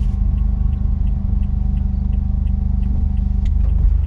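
Honda S660's small turbocharged three-cylinder engine running at a steady, low note, with a light, even ticking about three times a second over it.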